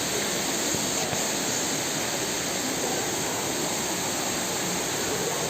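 Steady rushing water of a waterfall, an even roar without breaks.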